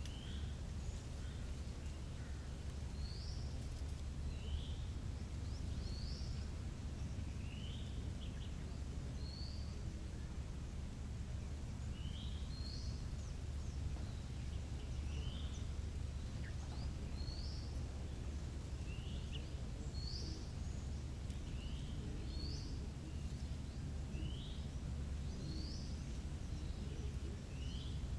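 A bird calling short rising chirps, roughly one a second, alternating between a higher and a lower pitch, over a steady low rumble.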